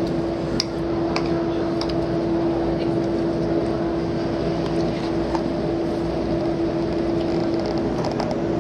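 Steady machinery drone aboard a cruise ship: a constant hum over a low rumble, with a few faint clicks.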